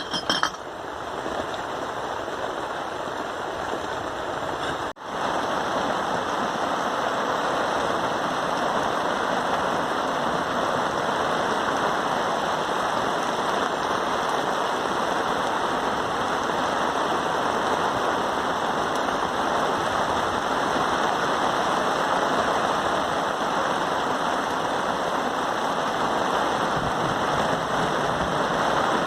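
Steady rain, an even continuous hiss. About five seconds in it cuts out for an instant and comes back slightly louder.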